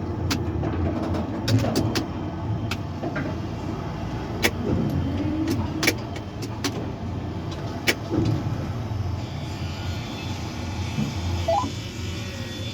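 Tower crane machinery running: a steady low hum with scattered sharp clicks and creaks, and a short rising tone near the end.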